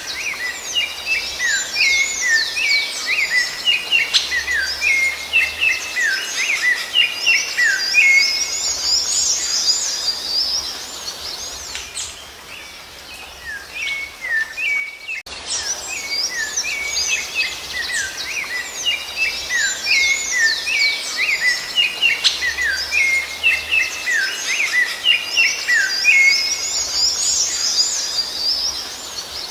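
Songbirds singing in a dense run of rapid chirps and whistles. The song thins out around halfway, breaks off abruptly, then starts again, as in a looped recording.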